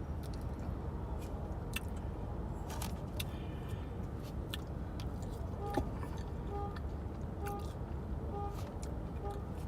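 Steady low rumble inside a car's cabin, with scattered small clicks and rustles from handling food. From a little past halfway, a short beep repeats about once a second.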